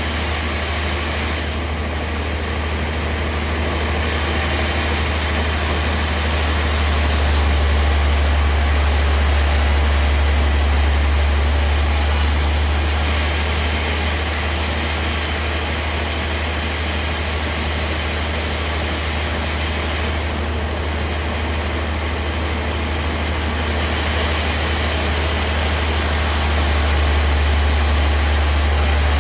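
Bandsaw sawmill running, its blade sawing through timber: a steady low motor hum under a continuous high hiss. The hiss thins out briefly twice, about two seconds in and again about twenty seconds in.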